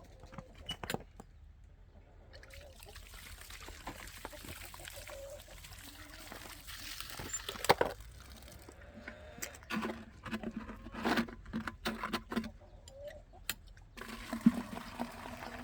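Water running into a chicken waterer as it is filled, starting a couple of seconds in, with sharp knocks and clunks of the container being handled, the loudest a little before halfway.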